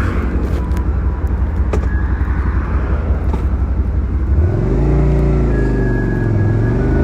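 Suzuki SV650's V-twin engine running low and steady with an uneven pulse, then picking up about four and a half seconds in, the revs rising, dipping briefly and rising again.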